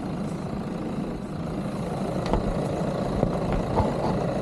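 Vehicle engine idling steadily, with a few faint clicks over it.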